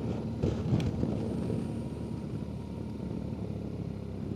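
BMW twin-cylinder adventure motorcycle running on the road, a steady engine hum under wind noise on the microphone, with a short scuffing burst just under a second in.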